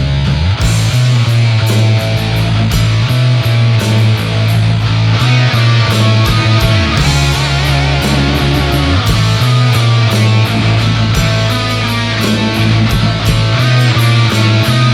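Heavy metal band playing: electric guitar over bass guitar and fast drums, with the bass notes changing every second or two.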